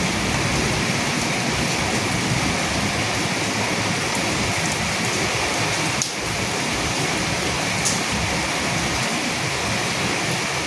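Steady rain falling on a surface: an even hiss, with the odd sharper drop tick.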